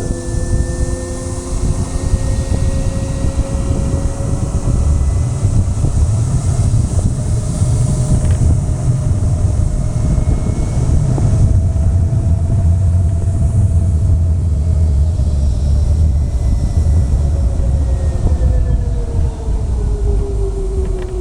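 Motor vehicle engine running at a steady cruising speed, with wind rushing over the microphone. The engine note drifts slowly up and then falls away near the end as the vehicle slows.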